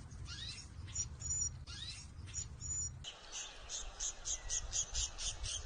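Small birds chirping: a few quick rising chirps and short, very high two-note calls, then from about three seconds in a rapid series of about five or six chirps a second. A low rumble runs underneath.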